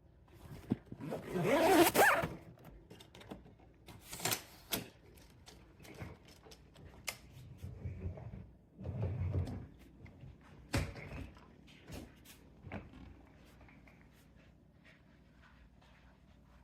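Handling noises from a hard-shell suitcase: a loud rasping sound lasting about a second near the start, then scattered clicks, knocks and a couple of short dull thuds.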